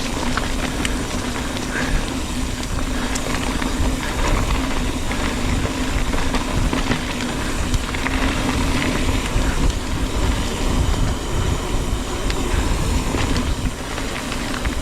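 Mountain bike riding fast down a dirt trail, heard from the rider's action camera: tyres rolling over dirt and roots, the bike rattling, and wind rumbling on the unprotected microphone, over a steady low hum.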